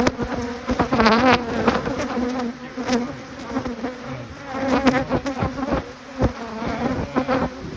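Honeybees buzzing around their hive, a dense steady hum with a few sharp clicks or knocks over it.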